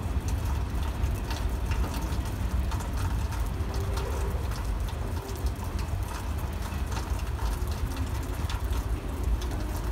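Freight train cars rolling past on the track: a steady low rumble with scattered clicks from the wheels.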